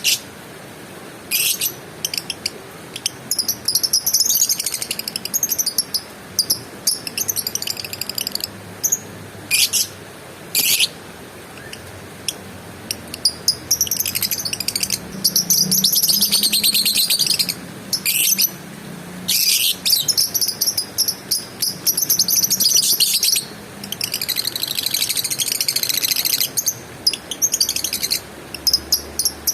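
A lovebird chattering in long, rapid, high-pitched bouts lasting several seconds each, broken by short sharp chirps.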